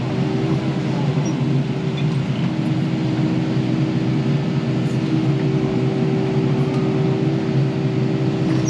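Kubota KX080 excavator's diesel engine running steadily, a constant-pitched drone that holds even throughout.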